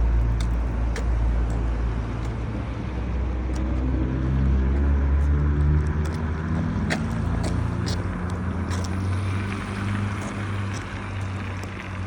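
A motor vehicle's engine running close by, a low hum whose pitch shifts up and down a few seconds in and then settles. Scattered sharp clicks sound over it.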